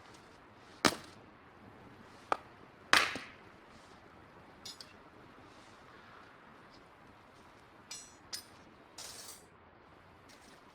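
Campfire of split firewood burning, with a low steady hiss under sharp pops and cracks from the burning wood: three loud cracks in the first three seconds, then a few softer crackles.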